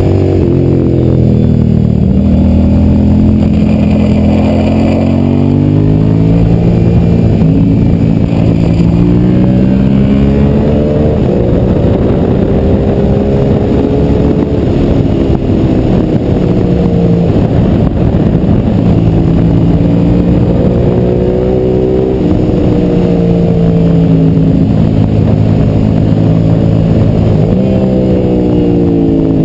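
Suzuki SV's V-twin engine on the track, revs climbing as it accelerates, stepping down at gear changes and falling away when the rider slows for corners.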